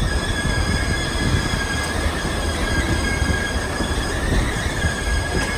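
Passenger train rolling along the track: a steady low rumble with a sustained high-pitched steel wheel squeal over it.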